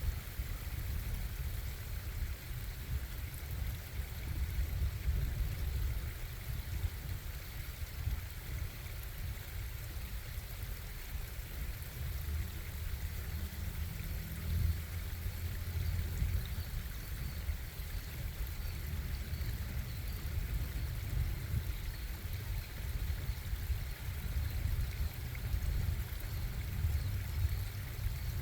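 Stream water running steadily, heard mostly as a deep, even rumble.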